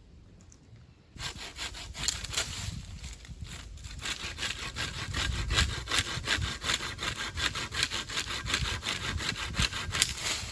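Hand saw cutting through firewood in quick, rhythmic back-and-forth strokes, starting about a second in, with a brief pause a few seconds later.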